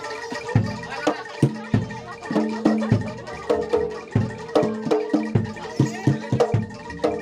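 Live Javanese gamelan music accompanying a kuda lumping dance: drum strokes over repeated pitched notes in a steady rhythm. The notes come faster and closer together from about halfway through.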